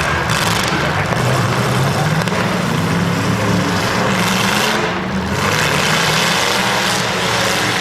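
Demolition derby cars' engines running and revving loudly, with a brief dip about five seconds in.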